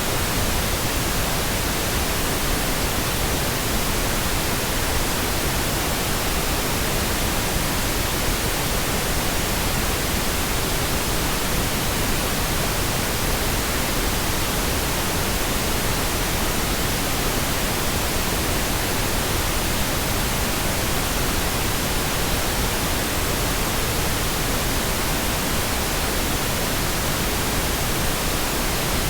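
Steady synthetic pink noise: an even, unbroken hiss across the whole range, unchanging throughout.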